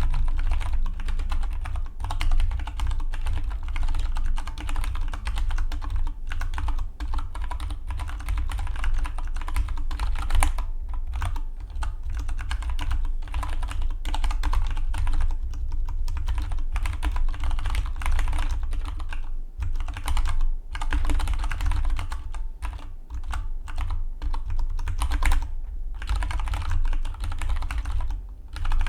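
Fast, continuous typing on a Dygma Defy split mechanical keyboard: a dense run of key clicks with only brief pauses.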